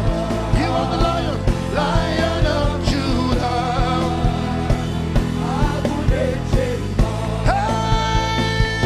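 Live gospel worship music: a band with a steady drum beat about twice a second under a wavering, sustained lead melody.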